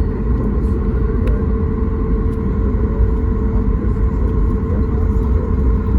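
Steady cabin noise inside a Boeing 737 MAX 8 airliner: a deep rumble with a steady hum from the engines and airframe, without any sudden change.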